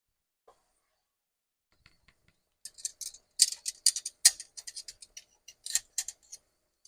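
A quick run of sharp clicks and scrapes, as of kitchen utensils being handled, starting about two and a half seconds in and stopping shortly before the end.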